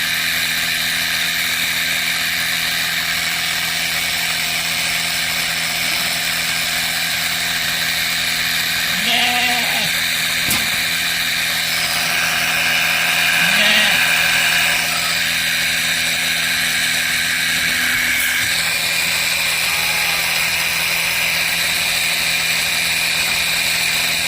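Motorized sprayer running at a steady pitch, spraying anti-parasite chemical onto goats. A goat bleats briefly about a third of the way in and again a little later.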